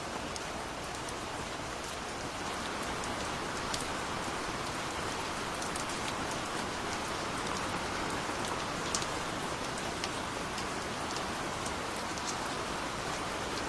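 Steady gentle rain: an even hiss of falling rain with scattered sharper drops ticking on a surface.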